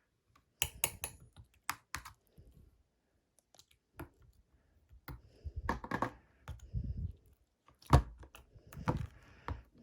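Irregular clicks and taps in small clusters, mixed with a few duller thuds.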